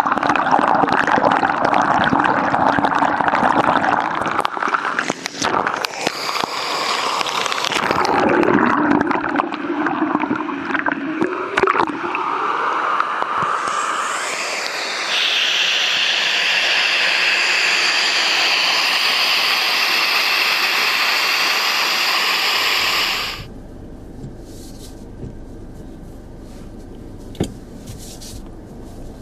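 Waterfall water pouring and splashing close by, shifting and gurgling at first, then a steady hiss of falling water; it drops away suddenly about 23 seconds in, leaving a much quieter low rumble.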